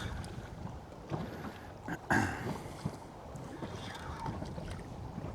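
Wind and sea noise aboard a small fishing boat, steady and rough, with a short, louder knock or splash about two seconds in.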